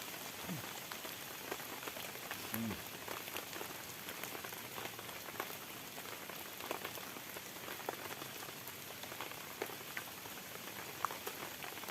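Heavy rain falling steadily, with many scattered sharp drop hits over an even hiss.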